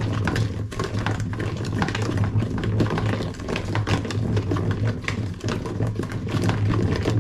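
A mixing utensil knocking and scraping against a bowl in a quick, irregular clatter while margarine, sugar and egg are beaten together by hand, over a steady low hum.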